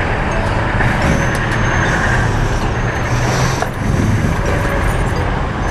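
Steady vehicle and road noise heard while riding a Yamaha Mio i 125 scooter in traffic, even throughout with a short dip about two-thirds of the way in.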